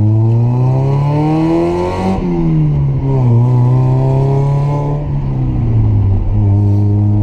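Mazda Miata's four-cylinder engine, breathing through an aftermarket exhaust with a resonated test pipe and a 6-inch muffler, revs rise steadily for about two seconds. Then the revs drop off, hold briefly, drop again and settle to a steady cruise.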